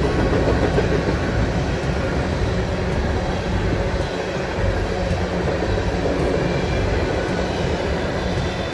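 A train rolling past: a steady, loud rumble of wheels on rails, easing off slightly near the end.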